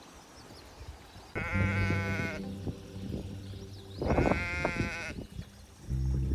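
A sheep bleating twice, each call about a second long and quavering.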